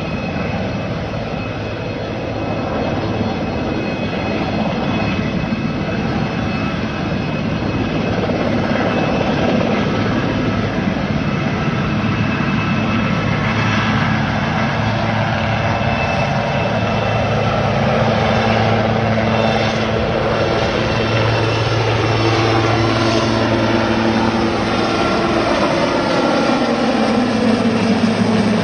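Firefighting helicopter's rotor and turbine running steadily while it takes on water. Several tones fall in pitch over the last few seconds.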